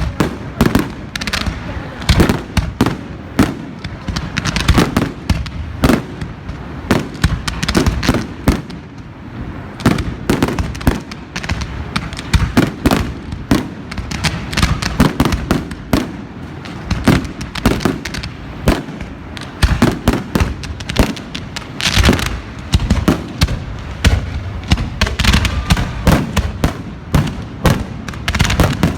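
Fireworks display: a continuous barrage of sharp bangs and crackles, several a second, with no break.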